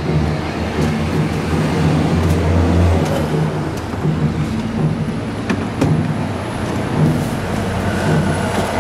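A car engine running with a low, steady hum. A few short knocks come as a wheelchair frame is lifted across the front seat and bumps the car's interior.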